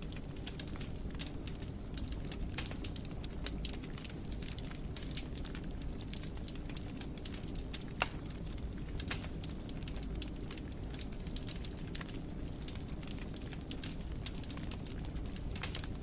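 Fire crackling in a fireplace: a dense, irregular run of small sharp pops over a low steady rumble, with one louder pop about eight seconds in.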